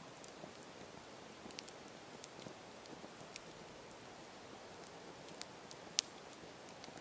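Campfire crackling: a steady hiss with scattered sharp snaps and one louder pop about six seconds in.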